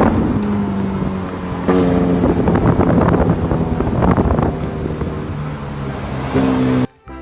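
Car engine sound revving up and down in pitch, cutting off suddenly near the end.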